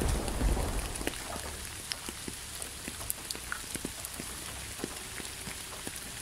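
Rain falling steadily, with scattered single drops ticking sharply. A low rumble of thunder dies away in the first second or so.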